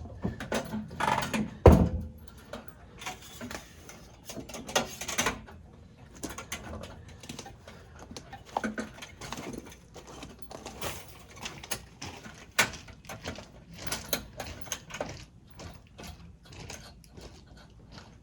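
Small channel-lock pliers and metal pipe fittings clicking, clinking and knocking irregularly as a water heater's connections are tightened, with one heavy knock about two seconds in.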